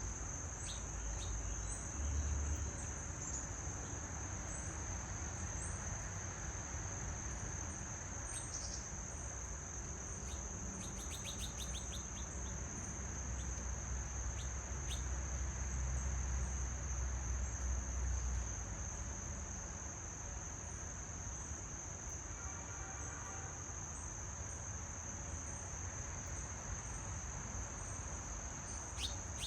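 A steady, high insect chorus trills without a break, with a few short bird chirps, including one quick run of notes a little before the middle. Under it runs a low rumble that swells about two seconds in and again through the middle.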